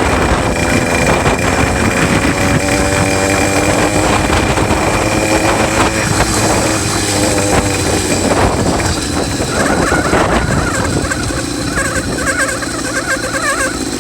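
66cc two-stroke bicycle engine kit running under way, its pitch rising and falling with the throttle, heard from a phone in the rider's pocket. A wavering high squeal joins in over the last few seconds.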